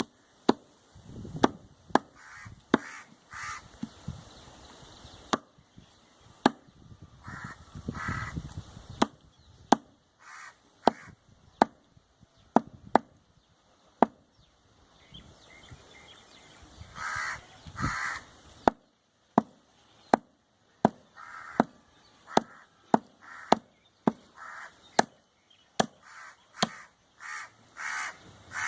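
Repeated sharp chops of a cleaver through goat meat and bone on a wooden block, irregularly spaced, about one stroke every half second to second. Short rasping bursts fall between some of the strokes.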